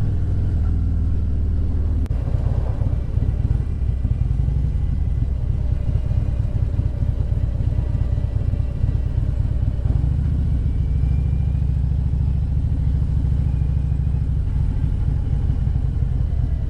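Motorcycle engine running steadily at road speed, a low rumble, shifting in pitch about two seconds in and again around ten seconds.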